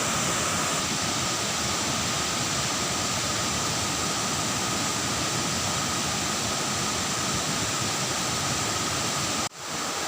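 Waterfall rushing: a steady, dense sound of falling water, broken by a sudden cut about nine and a half seconds in, after which it comes back slightly quieter.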